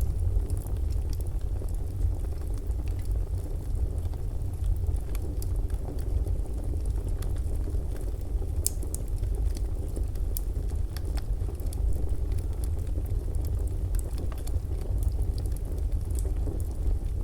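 Fireplace ambience: a wood fire crackling, with scattered sharp pops over a steady low rumble.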